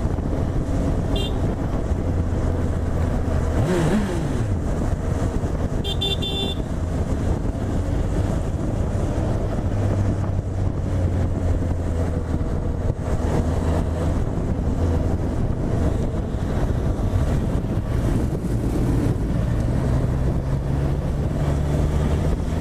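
Honda CB1000R's inline-four engine running under way, its note dropping steeply about four seconds in and climbing again near the end. A short high beep sounds about six seconds in, with a fainter one about a second in.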